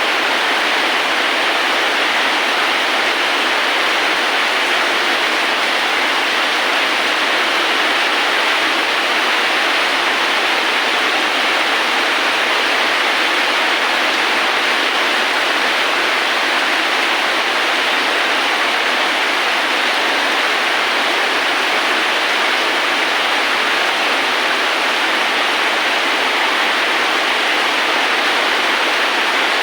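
Steady rain: a constant, even hiss of falling rain, with no separate drops or thunder standing out.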